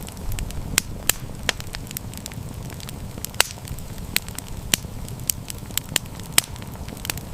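Campfire crackling, with irregular sharp pops over a low, steady rumble; one pop about three and a half seconds in stands out as the sharpest.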